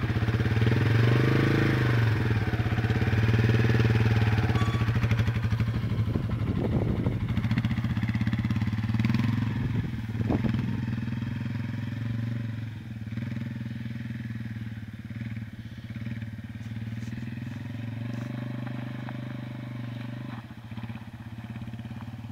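Yamaha TW200's single-cylinder four-stroke engine running steadily, growing quieter after about twelve seconds.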